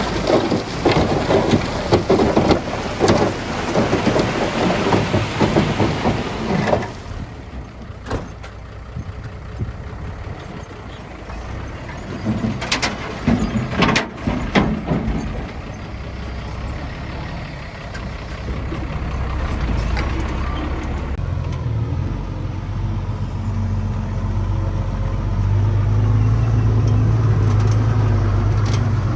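Diesel earthmoving machinery working: a bulldozer and a dump truck with rock and soil. Heavy clattering and scraping fill the first seven seconds or so, then come scattered knocks. A steady low engine drone builds and grows louder near the end.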